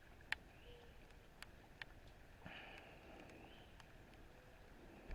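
Near silence: a faint hiss with a few soft clicks.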